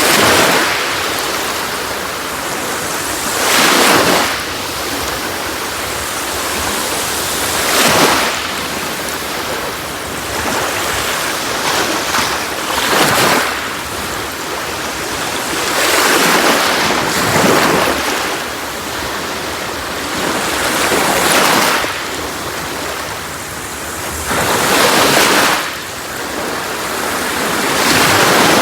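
Sea waves breaking on a beach: a steady wash of surf with a louder surge every three to five seconds as each wave comes in.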